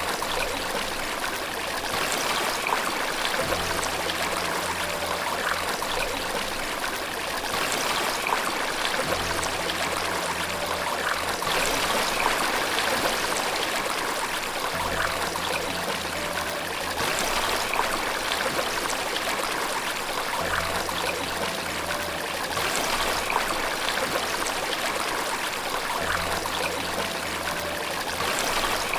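Steady rushing and trickling of flowing water, as from a stream or small waterfall. Faint low held tones sit under it, starting afresh every five to six seconds.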